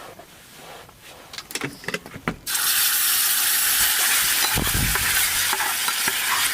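Food going into a hot pan and sizzling loudly. The sizzle starts suddenly about two and a half seconds in, after a few light clinks of utensils, and holds steady.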